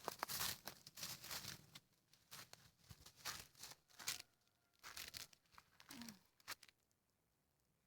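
Footsteps crunching through dry leaves and brush, a step roughly every half second, stopping about a second before the end.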